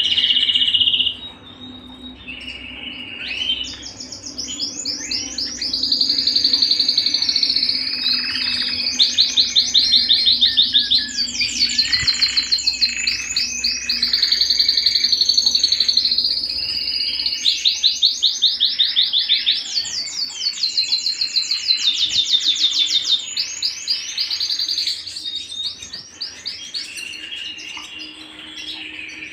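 Domestic canary singing a long, continuous song of rapid rolling trills and whistled notes, changing from one repeated phrase to the next every few seconds.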